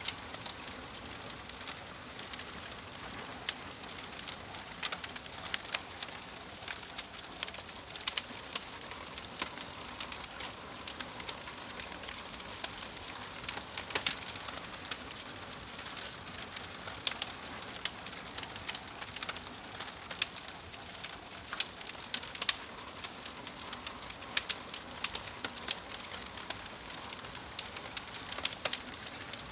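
Fire crackling: a steady soft hiss with irregular sharp pops and snaps, several a second.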